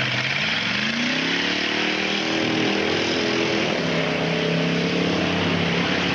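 Mud-bog car's engine revving up as it accelerates through the mud pit, its pitch rising over the first two seconds or so, then running steadily at high revs.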